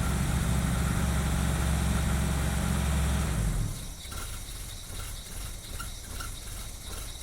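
Vauxhall Carlton engine idling steadily, then cutting off abruptly about halfway through, leaving a much quieter low rumble with faint ticking.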